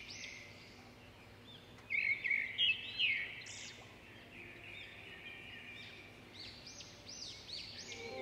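Small birds chirping, short repeated high calls, with a cluster of louder calls about two to three seconds in and more chirps near the end.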